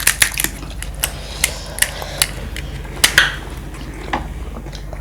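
Crisp clicks and crackles of crunchy panipuri shells and chatpate being handled and bitten, a few a second, with the loudest crunch about three seconds in.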